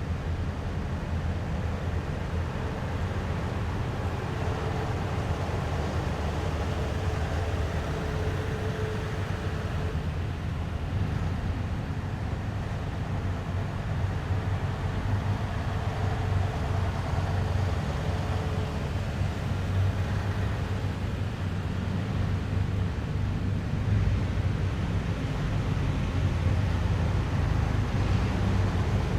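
Heavy military vehicles' engines running in a steady low rumble as a column moves along the street. A faint engine whine comes and goes, and the rumble grows a little louder near the end.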